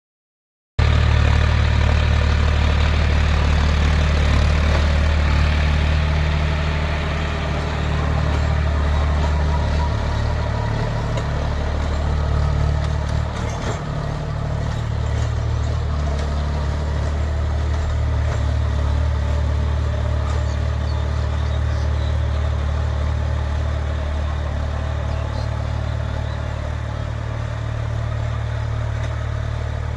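Tractor's diesel engine running steadily, working a Shaktiman rotavator through wet mud.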